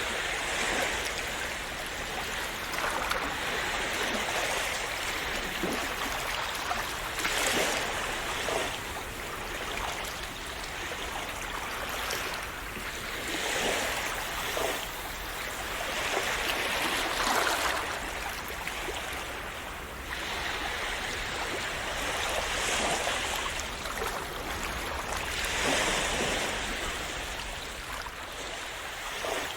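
Calm sea waves splashing and washing against a shore: a continuous rush of water that swells and eases every few seconds, with many small splashes.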